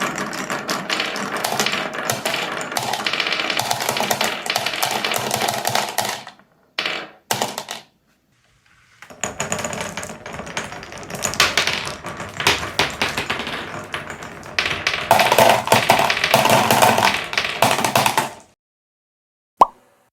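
Glass marbles rolling and clattering through wooden Cuboro marble-run blocks: a dense rapid rattle that breaks off about six seconds in, comes back after a short pause and stops near eighteen seconds. Near the end come a few separate sharp clicks.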